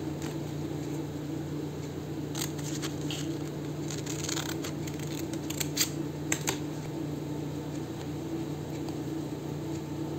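Scissors snipping brown paper: a scatter of short cuts and paper rustles, the sharpest few snips about six seconds in, over a steady low hum.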